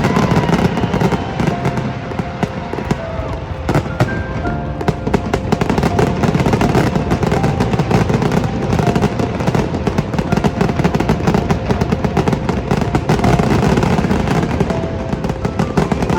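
A fireworks display going off in a rapid, continuous barrage of bangs and crackling, with music playing underneath.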